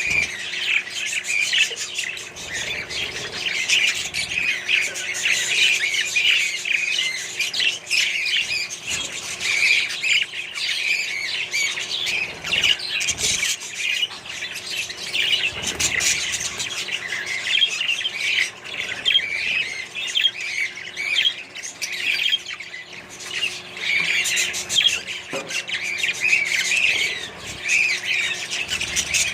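A colony of budgerigars and other small parrots chattering at once: a dense, continuous mix of chirps, warbles and squawks from many birds.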